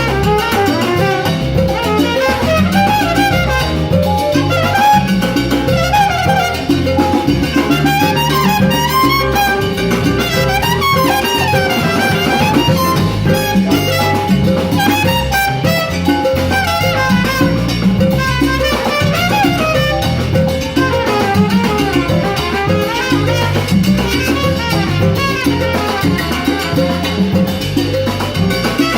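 Live salsa band playing a continuous number, with horn lines over a busy percussion and bass groove.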